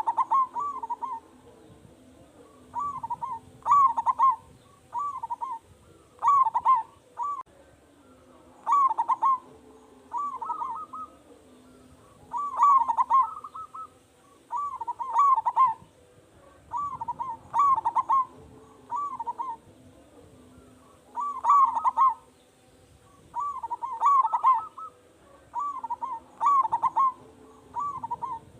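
Zebra dove (perkutut) cooing: phrases of quick, rolling coos, a new phrase every two to three seconds, over a faint steady hum.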